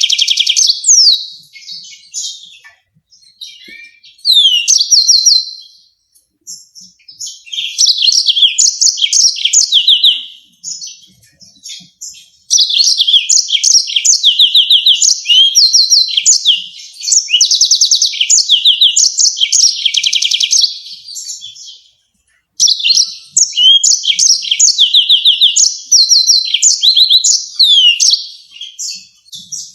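Yellow-fronted canary singing long phrases of rapid repeated trills and sharp notes, broken by short pauses about 6 and 22 seconds in.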